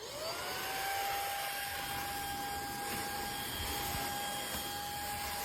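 Cordless vacuum cleaner, used handheld with its long pipe off, switched on: the motor spins up in a quick rising whine, then runs steadily on its low power mode with a steady high whine over the rush of air.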